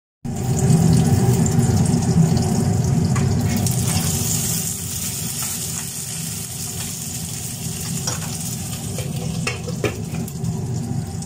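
Minced-meat gola kababs sizzling steadily in a little oil in a lidded frying pan on low heat, steaming through. There are a few light knocks in the second half.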